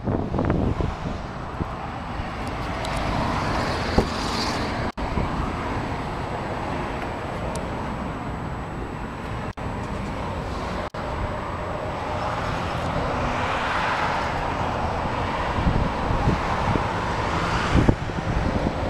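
Steady outdoor road-traffic noise with wind on the microphone, broken by three brief dropouts.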